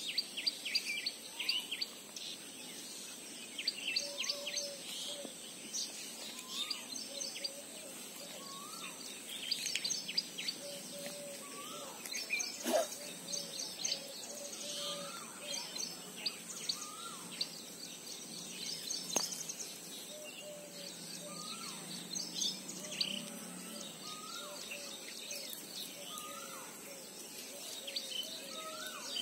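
Wild birds calling in open country: many short, high chirps and a lower call repeated every second or two, over a steady outdoor background hiss.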